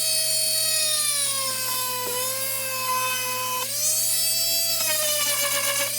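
A Dremel rotary tool running at high speed with a steady whine, boring holes in a dog door flap. Its pitch sags as the bit is pressed into the material and recovers when it eases off, about three and a half seconds in.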